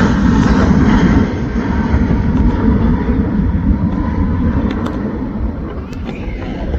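Jet airliner engines running with a heavy rumble and hiss, fading steadily as the aircraft moves away.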